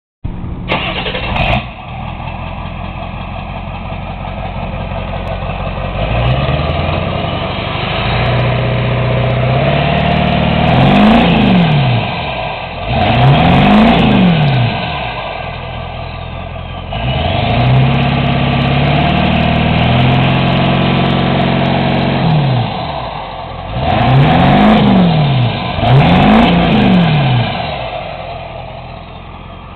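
2001 Ford 7.3L Power Stroke V8 turbodiesel running through a 5-inch Magnaflow exhaust with a Twister muffler. It idles, is held at raised revs several times, and is blipped four times, each rev rising and falling quickly.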